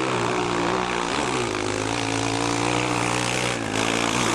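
Motocross bike engine running, its pitch dipping and rising as it is revved near the start and again near the end, holding steady in between.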